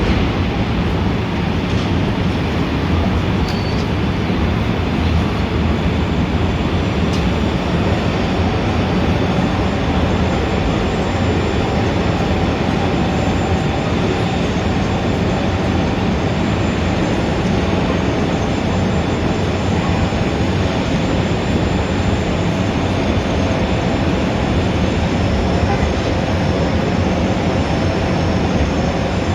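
Steady city traffic noise: a continuous rumble of engines and tyres with no breaks, and faint steady whines rising out of it from about a quarter of the way in.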